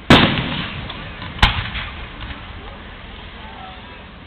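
Aerial firework shells bursting: a loud boom just after the start that trails off in a long echoing tail, then a second sharp bang about a second and a half in.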